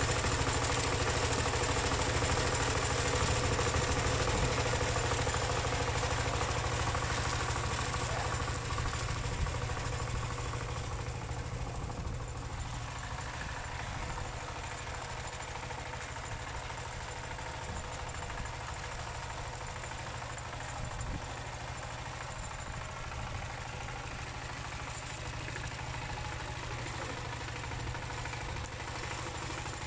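Single-cylinder Dongfeng diesel engine of a two-wheel paddy tractor running steadily with a fast, even knock of firing pulses, growing quieter over the first half.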